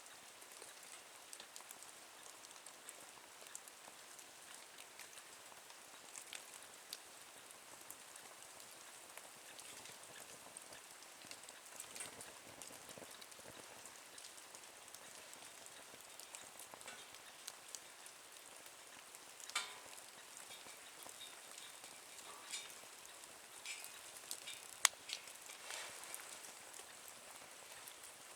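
Small wood fire crackling in a nature stove a minute or so after lighting: a faint steady hiss with scattered sharp pops, the loudest about 25 seconds in.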